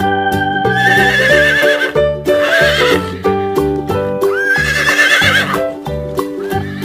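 Horse neighing, several whinnies with a quavering, wobbling pitch, over cheerful keyboard music with a steady beat.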